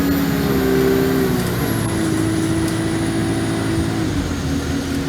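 Alexander Dennis Enviro200 bus engine running under way, its pitch dropping in two steps, about a second in and again near the end, with a faint high whine above it.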